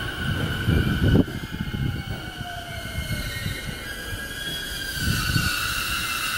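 Electric commuter train (JR East E233 series) braking to a stop at a platform: wheels rumbling, with a steady high brake and wheel squeal and a falling motor whine as it slows. There is a heavier rumble about a second in.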